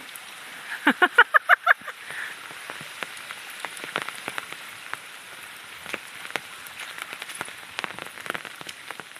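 Steady rain falling, with many scattered sharp ticks of drops landing. About a second in comes a brief, loud run of about eight quick pitched voice-like pulses.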